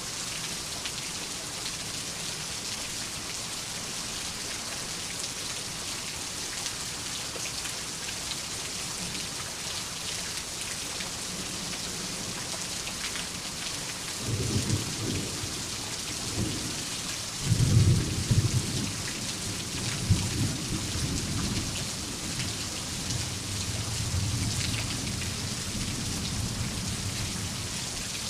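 Steady heavy rainfall, with a thunderclap about halfway through whose rumble peaks a few seconds later and rolls on until near the end.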